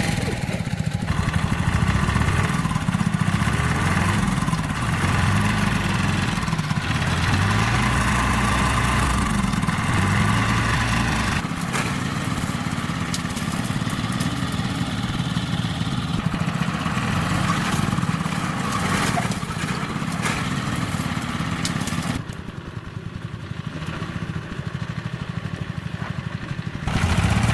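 An engine running steadily, dropping in level for a few seconds near the end before picking up again.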